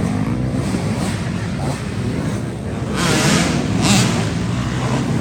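Small four-stroke pit bike engines running together in a dense, loud jumble as the bikes race around the track. The sound swells louder about three seconds in.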